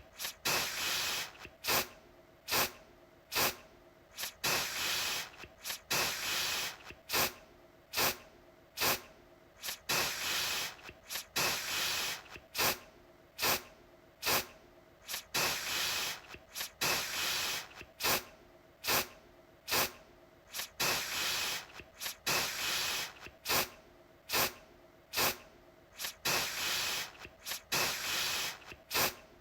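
Aerosol deodorant can spraying in repeated bursts, a mix of quick sharp puffs and longer hissing sprays of about half a second, coming one or two a second.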